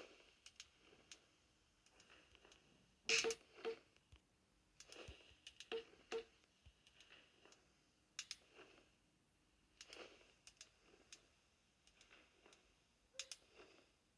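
Fire crackling in a fireplace being lit: faint, irregular pops and snaps, with a louder cluster about three seconds in and a few more around five to six seconds.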